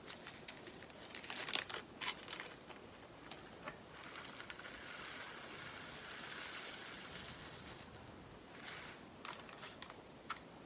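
Small plastic bags of diamond-painting drills crinkling, with light clicks of plastic pots being handled. A louder crinkly rustle comes about five seconds in and fades over the next few seconds.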